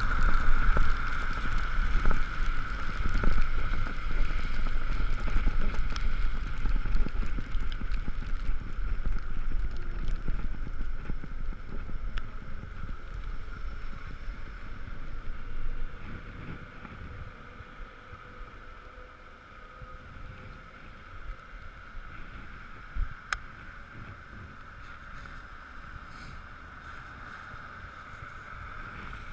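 Riding noise on an Ekoway ML5000 electric vehicle in the rain: wind buffeting and wet-road rumble, with a steady high whine throughout. The rumble drops off about halfway through, as if the vehicle slows.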